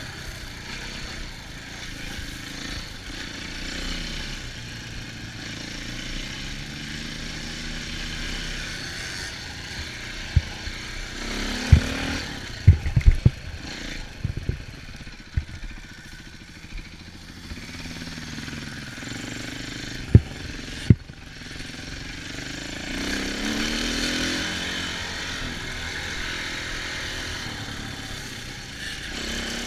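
Off-road engines of dirt bikes and four-wheelers revving up and falling back while riding. A cluster of sharp knocks comes about midway through, and two more a little later.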